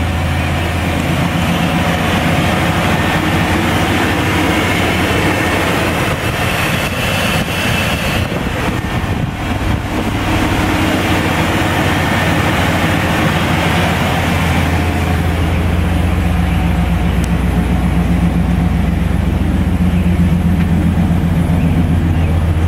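1996 Chevy K1500 pickup's engine idling steadily.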